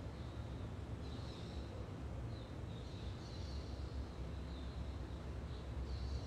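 Faint, brief bird chirps several times over a steady low background rumble.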